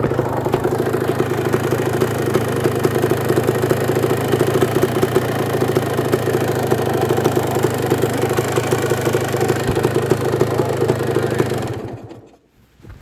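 Freshly rebuilt Kawasaki KDX200's single-cylinder two-stroke engine idling steadily, then shutting off about twelve seconds in.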